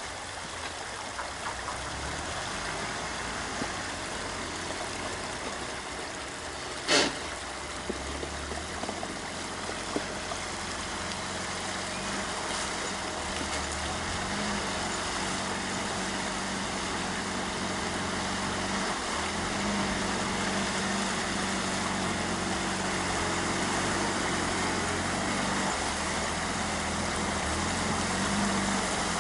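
A motor vehicle's engine running, over a steady rushing noise. It becomes more prominent and a little louder from about halfway through. One sharp knock sounds about seven seconds in.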